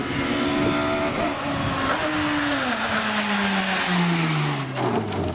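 Rally car engine running hard, its pitch holding and then dropping steadily over several seconds, over a noisy hiss of tyres.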